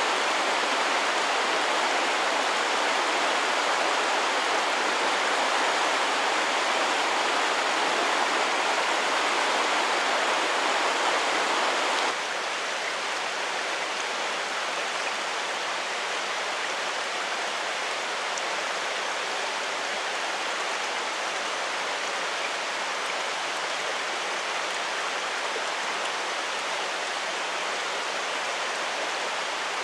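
Mountain stream water flowing steadily. The sound drops abruptly to a softer level about twelve seconds in, then carries on evenly.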